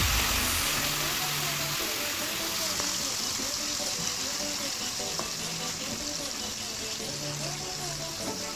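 Marinated chicken pieces frying in hot oil in a non-stick wok, sizzling steadily while being stirred with a wooden spatula. The sizzle slowly quietens.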